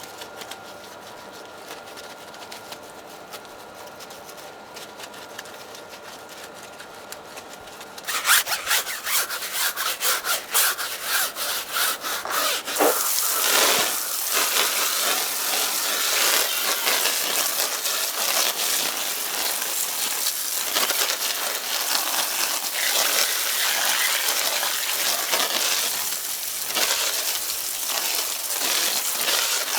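Wheel-cleaning brush scrubbing a car tyre and wheel. The rubbing strokes start about eight seconds in, come several a second, and then run together into a dense, steady scrubbing hiss.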